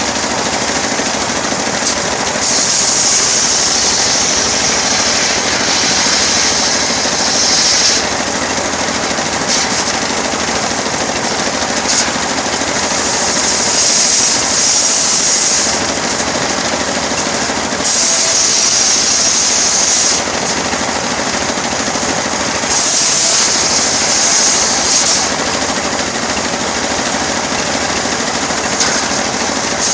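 Engine-driven sawmill saw running steadily while sawing teak. The cutting sound rises to a higher hiss for a few seconds at a time, several times over, as the blade passes through the wood.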